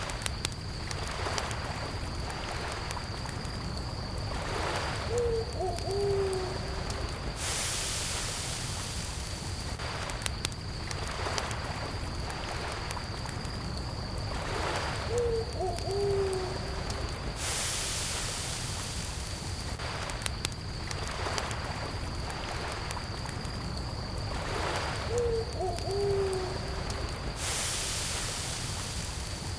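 Campfire crackling with sharp snaps over a steady high chirring of distant crickets, and a soft wash of lake water every ten seconds or so. A short, low animal call of a few notes, like an owl's hoot, comes three times about ten seconds apart.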